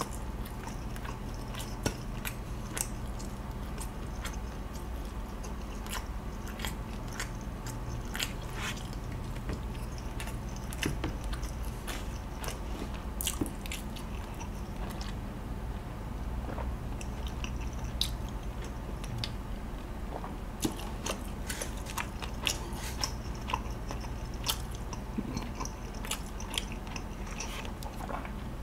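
Close-miked chewing of a dry, fried giant chicken skewer, with scattered mouth clicks, and a swig of milk from a carton about halfway through. A steady low hum runs underneath.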